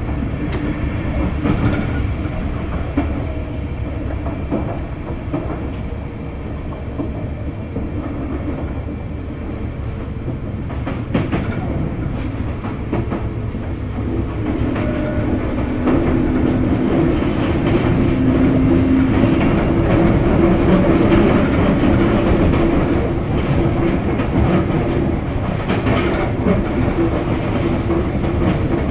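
Sotetsu 8000 series electric train with Hitachi GTO-VVVF traction equipment running between stations, heard from inside the car: steady wheel-and-rail noise with a few clacks. About halfway through a steady hum comes in and the running gets louder.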